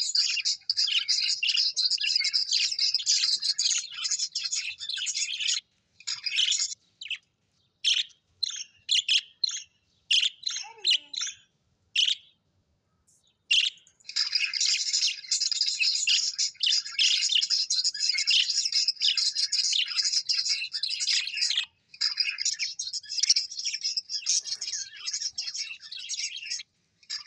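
Small birds chirping and twittering rapidly and almost without a break, high-pitched. Through the middle the calls thin out to separate chirps with short silences, then the dense twittering resumes.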